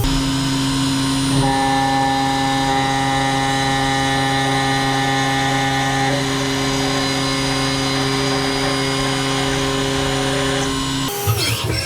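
Haas CNC mill spindle driving a two-flute 1/4-inch ball end mill through hard anodize on 6061 aluminum, a steady whine of several held tones as the cut runs. Near the end the steady tone breaks off into a brief jumble of shifting pitches.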